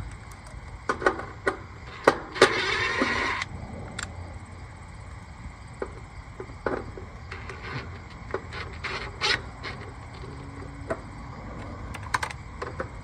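Hand-tool and sheet-metal handling while an existing screw is taken out of an air-conditioner unit: scattered small clicks and knocks, with a harsh noisy burst lasting about a second a couple of seconds in.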